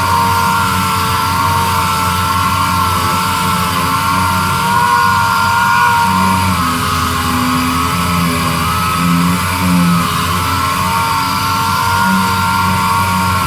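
Power sander running steadily with a high motor whine, its pitch wavering slightly as it works the surface.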